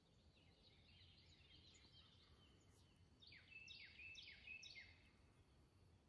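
A small bird singing in quiet woods. It gives a run of quick, faint, falling whistled notes, then about five louder, clear falling notes near the middle, each sliding down in pitch, at roughly three a second.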